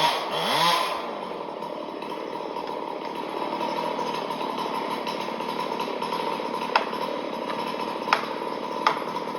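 Chainsaw rising and falling in pitch for about the first second, then running steadily under load while cutting through a fir that is about to fall. Three sharp snaps come in the last few seconds.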